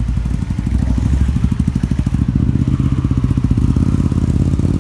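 A car engine idling loudly, its exhaust giving a fast, even pulsing.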